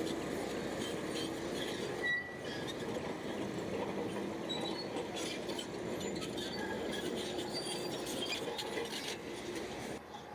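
Shantui crawler bulldozer working: the engine runs steadily while the steel tracks give off scattered metallic clanks and short squeaks.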